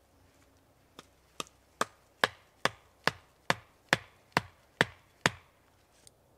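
A run of eleven sharp chopping blows at an even pace of about two a second, beginning about a second in and growing louder over the first few strokes.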